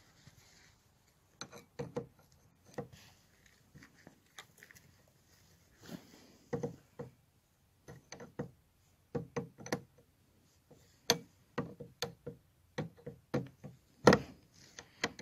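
Irregular clicks and knocks of hand tools being fitted and worked on a lawnmower's starter bolts, some twenty short strokes with the loudest near the end.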